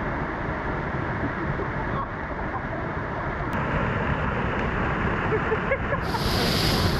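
Waterfall pouring heavily: a steady rush of falling water that grows a little louder, with a brighter hiss joining in about six seconds in.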